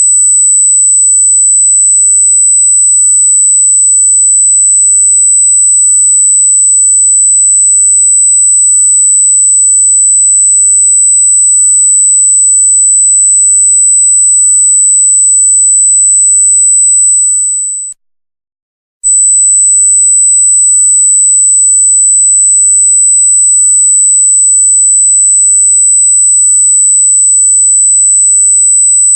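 A loud, steady, very high-pitched pure electronic tone, a single unwavering whine. Past the middle it fades out, drops to silence for about a second, then comes straight back at full strength.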